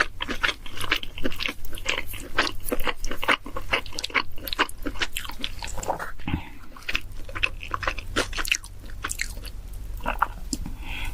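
Close-miked chewing and biting of pizza, with rapid crisp crunches of the crust, several per second, easing off briefly in the middle.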